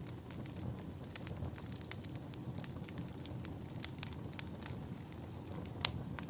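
Fireplace crackling: a steady low rumble of burning with scattered sharp pops and snaps, the loudest pop near the end.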